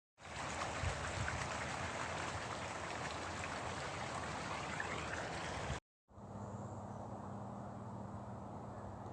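Steady rush of running water that cuts off abruptly about six seconds in. A quieter outdoor background with a low steady hum follows.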